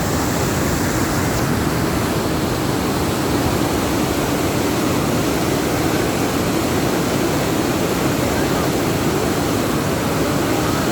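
Fast-flowing water rushing, a loud, steady, unbroken noise.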